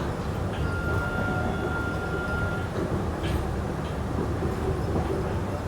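Airport people-mover train cabin while the train runs between stations: a steady low rumble, with a thin high whine for about two seconds early in the stretch.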